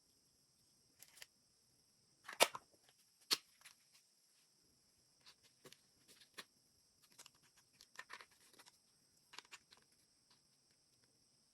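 Hands handling small objects: scattered soft rustles and light clicks, with two sharper knocks about two and three seconds in.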